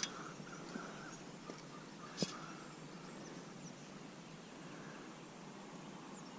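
Faint steady outdoor background noise, broken by two sharp clicks: one right at the start and a louder one about two seconds in.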